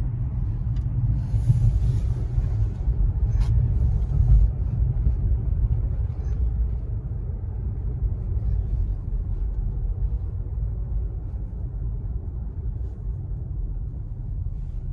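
Road noise inside a moving car's cabin: a steady low rumble from tyres and engine. There is a brief hiss and a single tick in the first few seconds, and the rumble eases a little after about five seconds.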